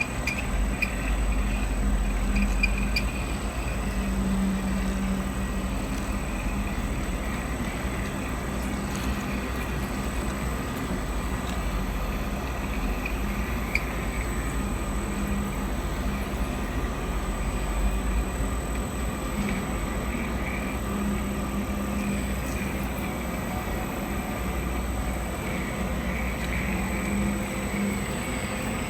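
Machine tool running steadily while it machines grooves into a slip ring, a continuous low mechanical drone with a steady hum.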